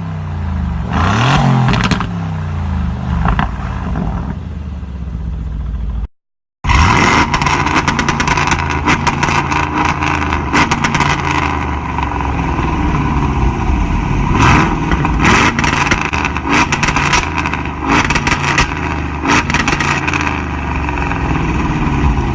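High-performance car exhausts revving, with the pitch rising and falling between blips. A brief silent cut about six seconds in joins two clips, and the second is full of sharp crackles over the engine note.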